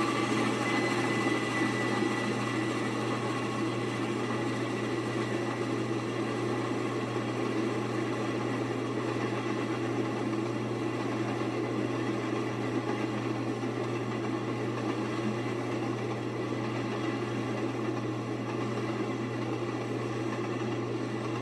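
Steady rolling rumble of a passenger train going by behind Union Pacific steam locomotive 844, slowly fading.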